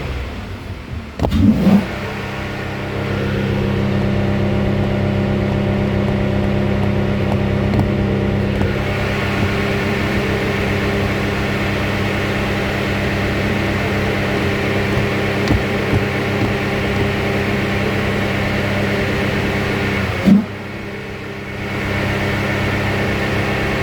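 Car engine revved up and held at steady high revs for long stretches, with a quick blip of the throttle near the start, a sudden drop in revs about 20 seconds in, and a climb back up to high revs near the end.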